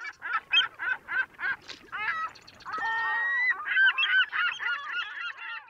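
A rapid series of honking bird calls, about four short calls a second, broken by one longer held call about three seconds in, then more quick calls that stop near the end.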